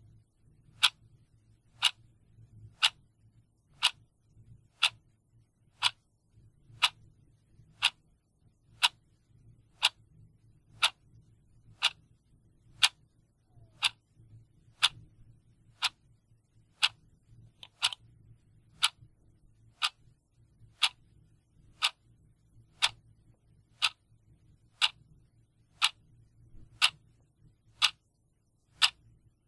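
Clock ticking steadily, about one tick a second, with a faint low hum underneath.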